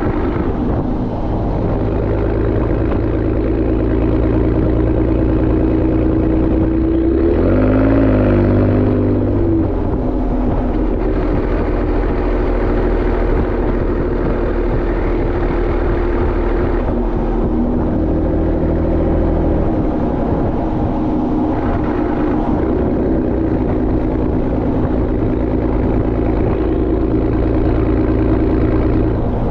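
Exhaust of a Ford Raptor's twin-turbo 3.5-litre EcoBoost V6 through a Borla ATAK exhaust, driving at a steady cruise. The pitch rises briefly about eight seconds in, then falls back to a steady note.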